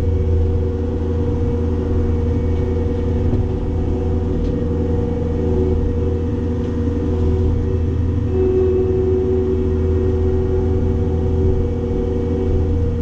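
Cat 262D skid steer's diesel engine running steadily while brush mowing, a deep hum with a higher steady whine that grows stronger about eight seconds in.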